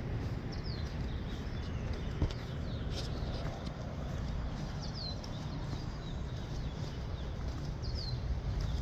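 Small birds chirping, short high notes that each sweep downward, repeated every second or so over a steady low rumble.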